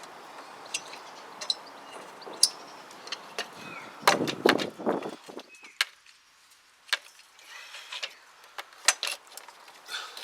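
Metal motorcycle parts and tools clinking and knocking as they are handled and fitted, with a louder run of knocks and scraping about four seconds in.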